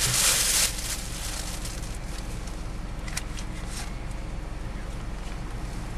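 Car engine idling with a steady low hum. A short rustle at the very start, then two faint light clicks around the middle.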